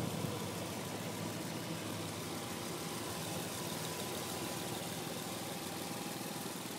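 Nissan 300ZX Twin Turbo's 3.0-litre twin-turbo V6 idling steadily.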